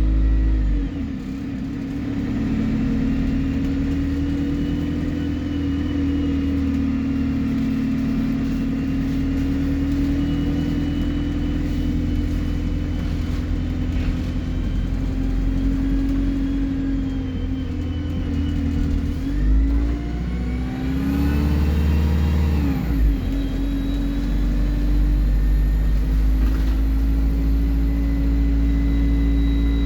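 Alexander Dennis Enviro 200 bus engine running under way with a high turbo whistle over the engine note. About twenty seconds in, the engine pitch dips and swings up again, and a thin, very high whistle climbs and then holds.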